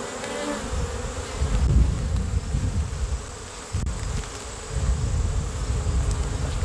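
Honey bees buzzing steadily in flight around the hive entrance, with bouts of low rumble partway through.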